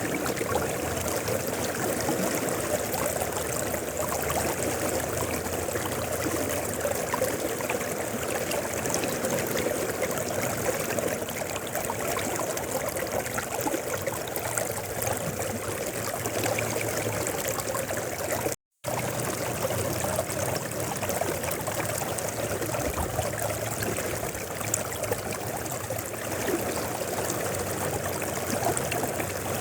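Mountain river flowing, a steady rush and trickle of water over stones. A momentary dropout to silence comes about two-thirds of the way through.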